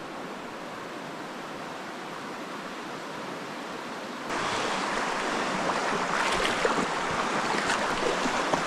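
River water rushing over stones, a steady noise that gets louder about four seconds in, with a few short splashes in the second half.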